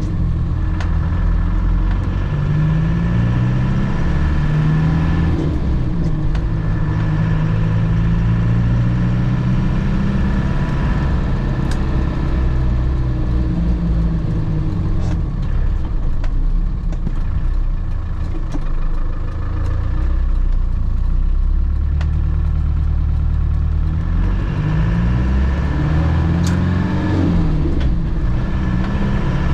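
1998 Land Rover Defender heard from inside the cabin while driving: the engine runs under load, its pitch rising and falling several times as it accelerates and eases off, over steady road noise, with a few sharp ticks.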